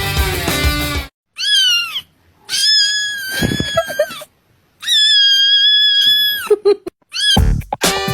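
A domestic cat meowing three times: one short meow, then two long, drawn-out meows, the last held steady before trailing off in a few short sounds. Rock music cuts off just before the first meow and music starts again near the end.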